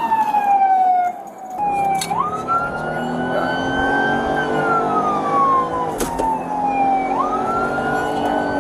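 Emergency vehicle siren on a wail, its pitch sweeping quickly up and then sliding slowly down, over and over. From about a second and a half in, a heavy vehicle's engine hum sits underneath it.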